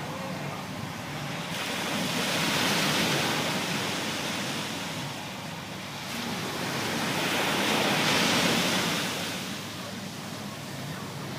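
Water rushing past a sailboat under way, with wind on the microphone. The hiss swells twice, about three seconds in and again about eight seconds in, each time for a few seconds.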